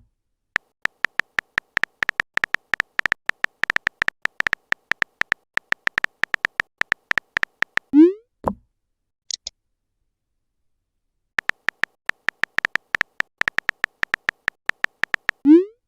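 Chat-app typing sound effect: quick runs of identical short synthetic ticks, each run ending in a short rising pop as the message is sent. After the first pop there is a brief high blip, then a pause of a couple of seconds before the ticking resumes and ends in another pop near the end.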